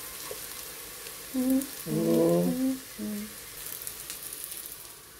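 Sliced onions and whole boiled eggs sizzling in butter in a pot, a steady crackling hiss. In the middle a person hums a few notes over it, the loudest sound.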